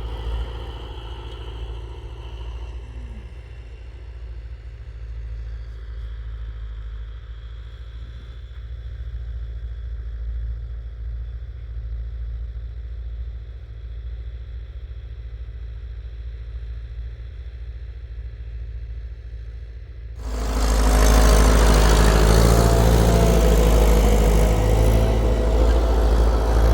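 Tractor engine running steadily with a low rumble. About twenty seconds in, the sound suddenly becomes much louder and rougher.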